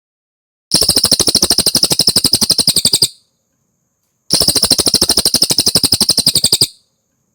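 Cililin bird song: two identical rapid trills of about two and a half seconds each, a fast even run of sharp high notes with a pause between.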